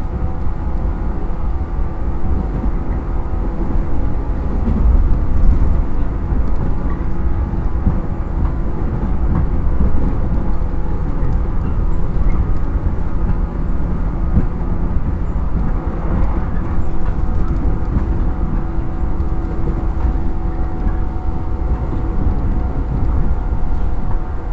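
Inside a JR 115 series electric train's motor car running at a steady speed: a steady low rail-and-bogie rumble with small clicks, and an even hum from its MT54 traction motors and gears.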